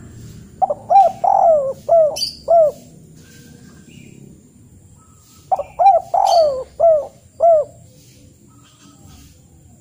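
A bird calling: two phrases of about five quick notes each, each note rising and falling in pitch, a few seconds apart. A faint low rumble lies underneath.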